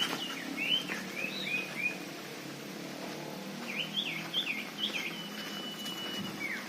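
Common iora song: two phrases of quick rising-and-falling chirps, and one long level whistle a little before the end.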